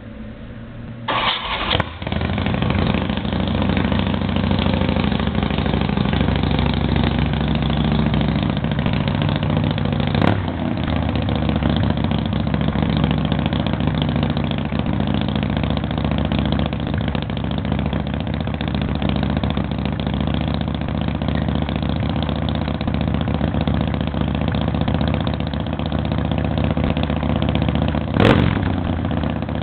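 2005 Big Dog Bulldog motorcycle's V-twin engine cranking and catching about a second in on a cold start, then running steadily. Two brief sharp cracks cut through, one about a third of the way in and one near the end.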